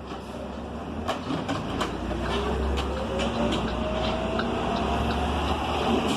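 New Flyer XN40 transit bus pulling away and accelerating, heard from inside the cabin: its Cummins Westport ISL G natural-gas engine and Allison transmission make a low drone and a whine that rises steadily in pitch and grows louder, with scattered clicks and rattles from the interior.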